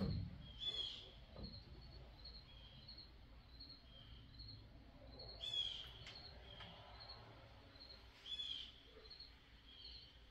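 Bird calling: a steady run of short, high chirps about twice a second, broken three times by a louder call that falls in pitch. A soft knock sounds right at the start.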